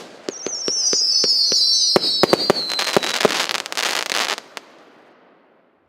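A 36-shot, 1-inch consumer firework cake firing, with sharp bangs of shots going off. Several whistles fall together in pitch over about three seconds. A dense crackling follows and stops about four and a half seconds in, then the sound dies away.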